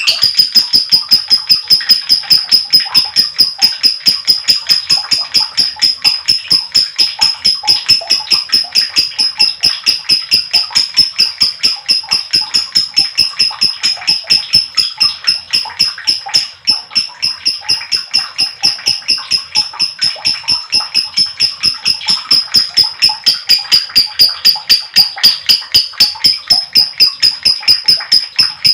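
Lovebird 'ngekek panjang', a long unbroken high-pitched chatter of rapid repeated notes, about four to five a second, with a brief falter about halfway through.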